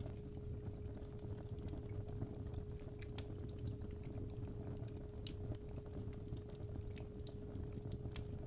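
Fireplace fire crackling, with irregular sharp pops over a low rumble, under a steady 417 Hz tone.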